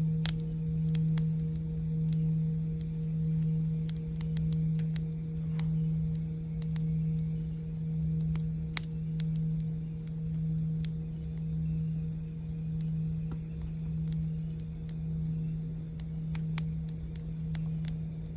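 A singing bowl sounds a steady low tone that wavers in a slow pulse about once a second. Campfire crackles and pops are scattered over it.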